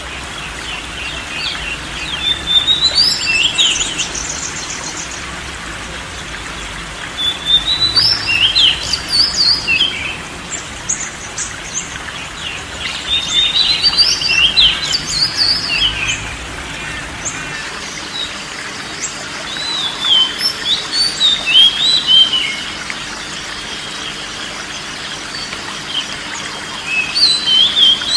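Oriental magpie-robin (kacer) singing: bursts of clear, gliding whistled phrases, each two to three seconds long, coming about every five or six seconds over a steady background hiss.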